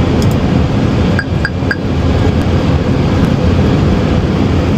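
Steady airflow and engine noise in an Airbus A380 cockpit on short final, with three quick high beeps about a second in.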